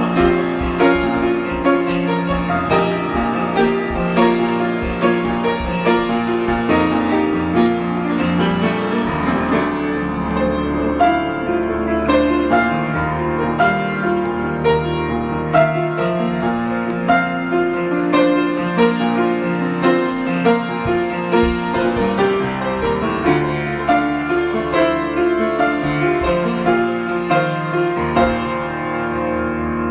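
Solo piano improvisation: a continuous flow of notes and chords.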